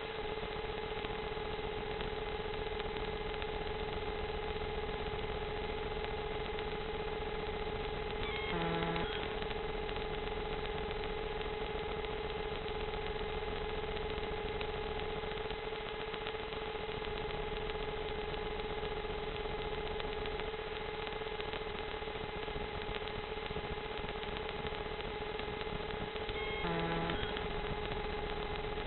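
Steady, even whine of a small drone's motors and propellers. Two brief stepped sounds break in, about 9 seconds in and near the end.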